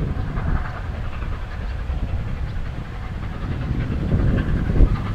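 Wind buffeting the microphone, with a train running unseen in the distance.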